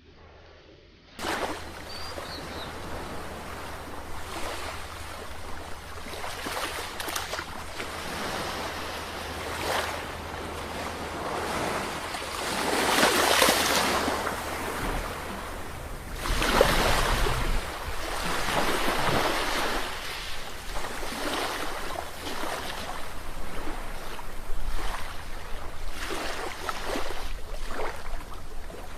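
Sea waves breaking and washing in, a continuous rushing surge that cuts in suddenly about a second in and swells loudest twice near the middle as bigger waves break.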